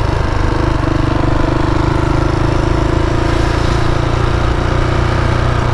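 KTM 690's single-cylinder engine running steadily under a rider, an even drone with no change in pitch.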